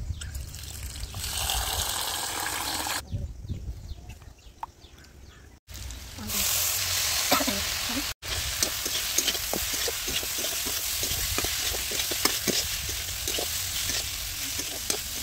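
Poha (flattened rice) frying in a dark metal wok: steady sizzling of hot oil with frequent short scrapes and clicks of a metal spatula stirring it. The sizzling comes in loudly about six seconds in.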